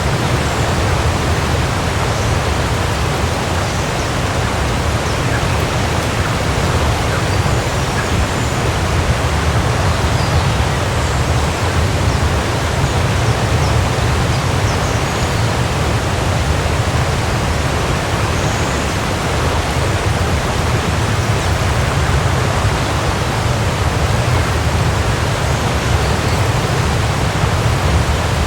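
Waterfall: water falling and splashing in a steady, unbroken rush with a deep low rumble. A few faint, short high chirps sound now and then above it.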